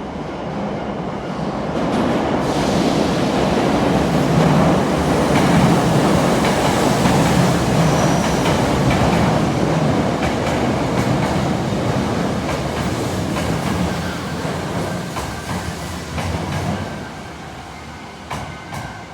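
A train running past on the tracks close by, its wheels clattering over rail joints. The noise swells over the first few seconds, holds loud for a long stretch, then dies away near the end.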